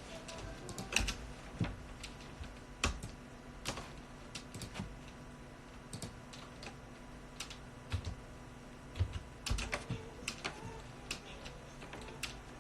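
Computer keyboard being typed on: scattered, irregular key clicks with pauses between them.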